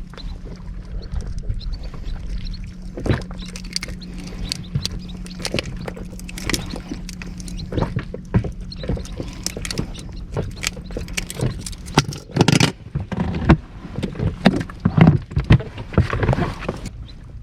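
Knocks, clicks and water sloshing around a small inflatable boat, over a steady low hum that stops about two-thirds of the way through.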